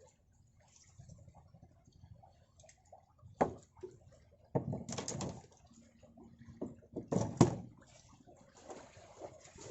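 A few sharp knocks and thuds with water sloshing, then a steady rush of water near the end.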